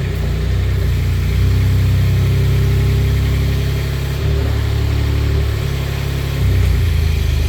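Manitou TMM45 truck-mounted forklift's Kubota engine running, its speed rising and falling a few times, about a second and a half in, around four seconds in and again near the end.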